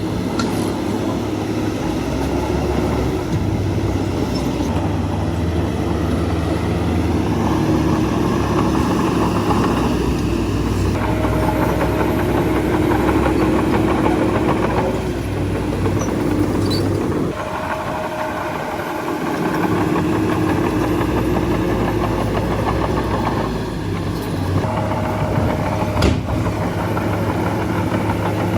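Bulldozer's diesel engine working under load, its pitch and strain shifting as it pushes soil, easing off briefly about two thirds of the way through. A single sharp clank near the end.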